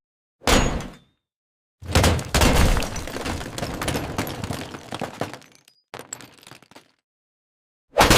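Cartoon crash sound effects of something being smashed and breaking apart: a short hit, then a longer crash that dies away over a few seconds, with another loud crash starting near the end.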